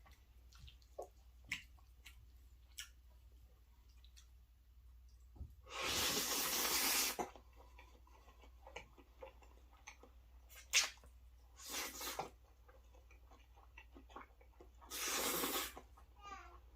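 Close-miked eating: small wet mouth clicks and chewing of bacon and pasta, with two heavy breaths about six seconds in and again near the end.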